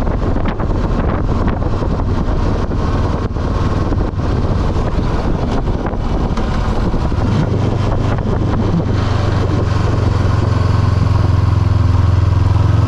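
Honda CB500F parallel-twin engine pulling up a big hill at low revs, bogging down under the load. Wind buffets the microphone over the first half. About seven seconds in the engine note comes through strong and steady, then begins to rise near the end.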